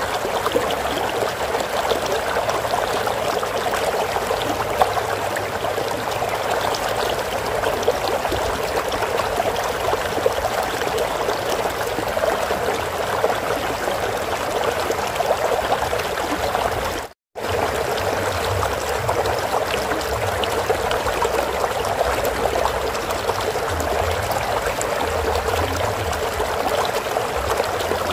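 Water flowing in a stream, a steady babbling rush. It cuts out for a split second about two-thirds of the way through, then carries on unchanged.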